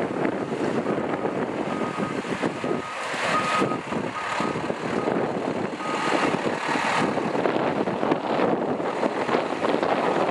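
Fire engine running as it backs in, its reversing alarm sounding a string of short, evenly spaced beeps from about two seconds in until about seven seconds in.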